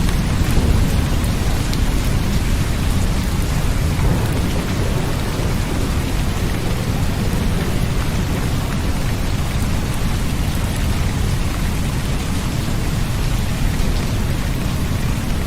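Steady rain, a dense even hiss with a constant deep rumble underneath.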